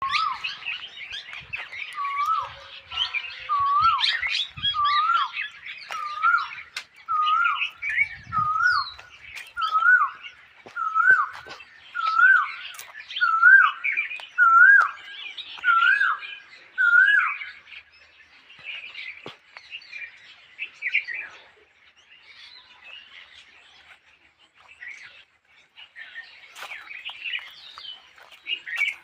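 A male Asian koel calls its repeated two-note "ku-oo" about a dozen times, roughly once a second, each call a little higher than the last, and stops about two-thirds of the way through. Throughout, a chorus of smaller birds keeps up a busy chirping.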